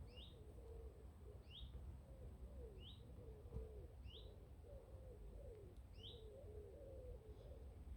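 A small bird repeating a short, rising chirp about every second and a bit, faint, with low cooing underneath.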